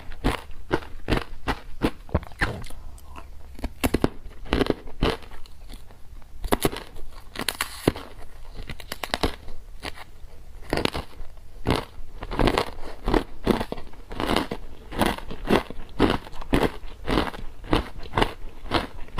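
Close-up crunching of ice being bitten and chewed: a dense run of sharp, irregular crunches, several a second.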